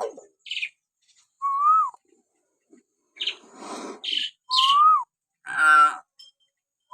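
Hill myna (beo) giving a string of separate calls: clear whistles that rise then fall, mixed with higher chirps and harsher, raspy calls.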